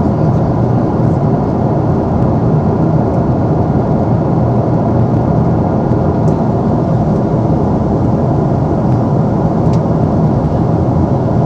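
Steady cabin noise of a Boeing 777-300ER airliner in flight: an even rumble of airflow and its GE90 engines, with a faint tick or two.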